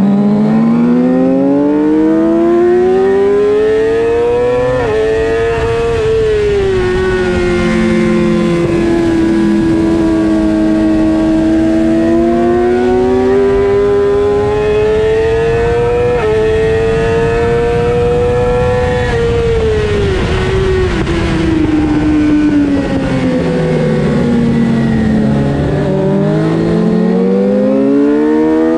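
Suzuki GSX-R racing motorcycle's inline-four engine revving hard under acceleration. Its pitch climbs with shifts at about five and sixteen seconds in, falls away as the bike slows from about nineteen to twenty-six seconds in, then rises again near the end, over steady wind noise.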